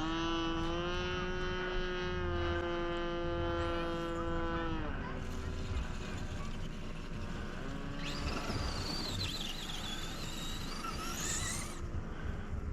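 Magnum engine of a radio-controlled Cessna 182 model airplane running at a steady high pitch, throttled back about five seconds in for the landing approach. A high wavering whine rises and falls from about eight to twelve seconds.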